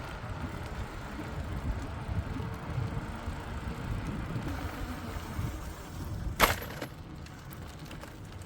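Wind rumble on a phone microphone riding on a moving bicycle, with tyre and road noise, and one sharp knock about six and a half seconds in.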